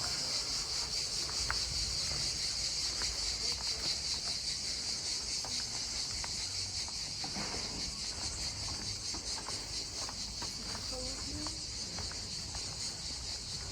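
Steady high-pitched insect chorus with a fine pulsing texture, with faint scattered clicks and distant voices beneath it.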